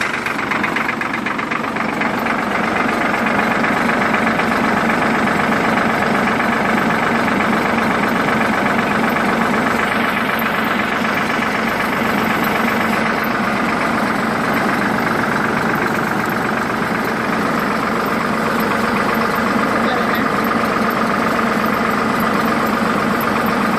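Engine idling steadily on a cold start.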